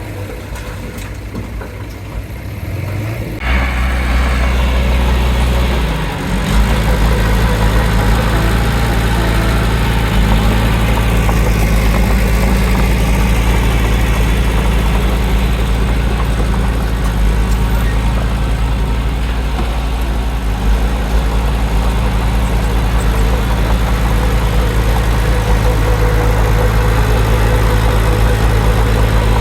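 Heavy diesel engine of earthmoving machinery running steadily. It becomes much louder about three and a half seconds in and holds a deep, even drone.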